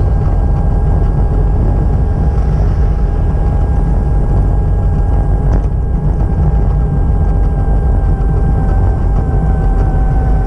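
Steady, loud low rumble of a running vehicle with a constant high whine over it, the whine wavering slightly near the end.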